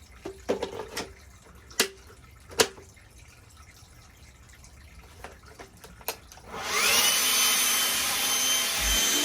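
A few light clicks and knocks, then an electric power tool's motor spins up with a rising whine about two-thirds of the way in and runs steadily at speed.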